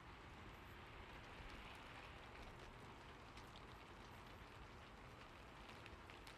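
Faint steady rain: an even hiss with scattered sharper drops.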